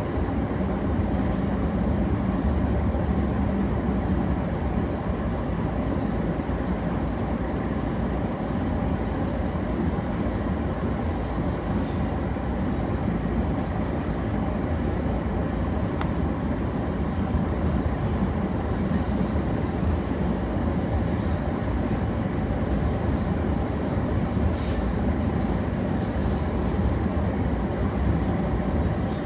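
Freight train's boxcars and covered hoppers rolling past: a steady rumble of steel wheels on the rails, with faint high wheel squeal coming and going.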